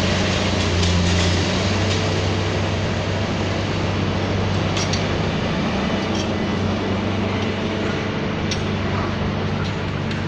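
Heavy demolition machinery running steadily with a deep engine hum, with a few sharp clinks scattered through it.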